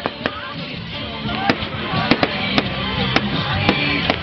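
Fireworks going off: a string of sharp bangs and crackles at irregular intervals, about a dozen in four seconds, with music playing underneath.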